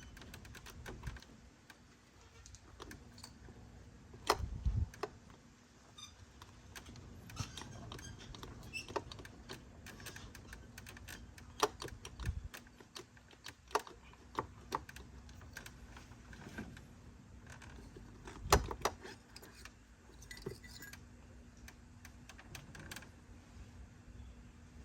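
Metal hand tools, spanners and sockets, clinking and clicking against engine parts and fittings in irregular bursts, with a few louder knocks.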